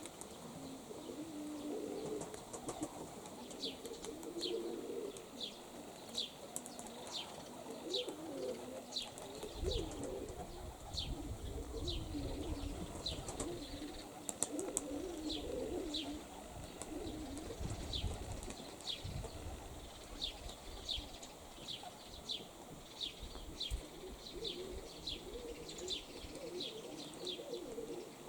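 Domestic pigeons cooing, with a high, short, falling chirp repeated about twice a second over it. Wind gusts buffet the microphone with a low rumble twice, about ten seconds in and again near eighteen seconds.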